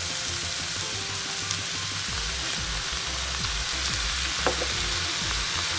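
Ground pork and cabbage stir-fry sizzling steadily in a skillet as a soy sauce and fish sauce mixture is poured in.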